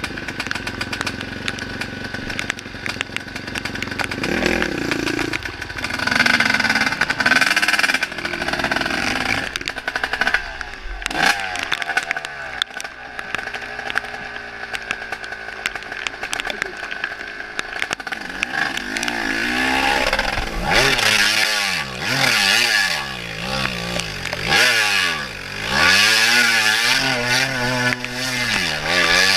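Honda CR250 two-stroke dirt bike, its engine freshly rebuilt, being ridden with the throttle opened and closed over and over, the engine pitch rising and falling. It gets louder in swells over the last third, as if it is passing close by.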